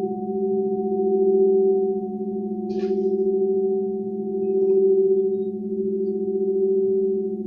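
Sustained metallic ringing of sound-healing instruments: several steady tones held together as one drone, swelling and fading slowly about every two seconds. A faint short high sound comes through about three seconds in.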